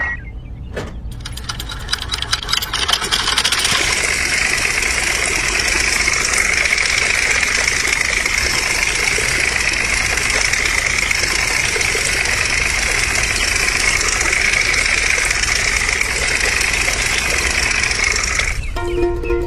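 A small electric motor running steadily with a high hum, starting after a few clicks about a second in and cutting off shortly before the end.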